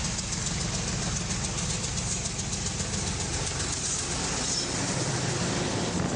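A train running: a steady low rumble under an even hiss.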